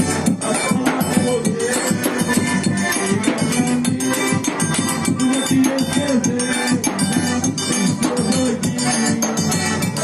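Live forró music: an accordion holding notes over a steady, even percussion beat.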